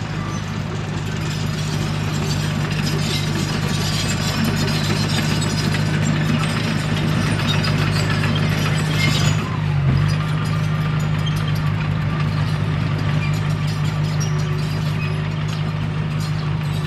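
Komatsu D21P bulldozer's diesel engine running steadily under load, with loud metallic clatter and scraping from the tracks and blade over it for the first nine seconds or so, easing off briefly about ten seconds in.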